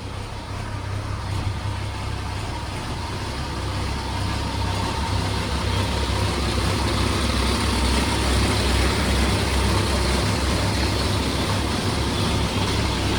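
M35A2 deuce-and-a-half's multi-fuel diesel engine idling soon after a cold start at about 10°F, still warming up. A steady low rumble that grows louder over the first several seconds, then holds.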